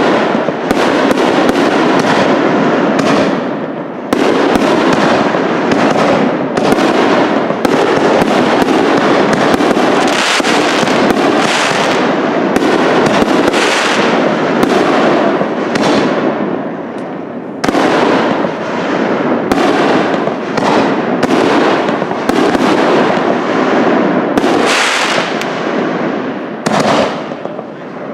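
Aerial fireworks bursting in a dense, near-continuous barrage, many sharp bangs and crackles overlapping, with only a few brief lulls.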